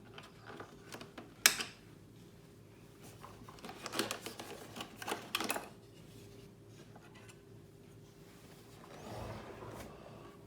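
Hard plastic parts of a vacuum cleaner's shell being handled and worked apart: a sharp snap about one and a half seconds in, then a busy run of clicks and rattles, and a softer rustle near the end, over a faint steady hum.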